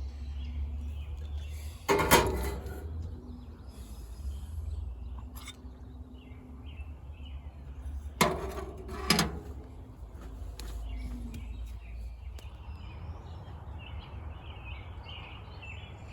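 Outdoor morning ambience: a steady low rumble with birds chirping faintly, more of them toward the end. Three brief knocks break through, one about two seconds in and two close together around eight to nine seconds in.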